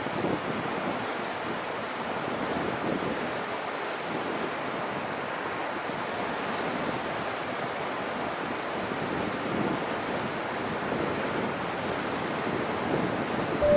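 Steady wind on the microphone mixed with the rush of sea water, with no distinct events.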